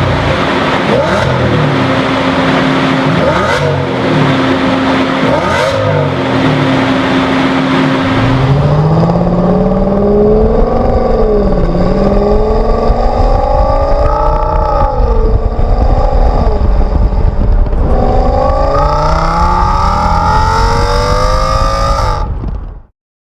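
Audi S8 fitted with a Fabspeed resonator-bypass X-pipe exhaust. For the first several seconds the engine runs with a repeating rise-and-fall pattern and a steady tone. About eight seconds in it accelerates hard, its pitch climbing and dipping at each gear change several times. The sound cuts off abruptly near the end.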